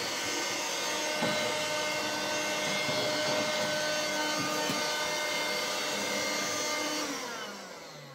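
An electric motor appliance running steadily, switched off about seven seconds in and spinning down with a falling pitch.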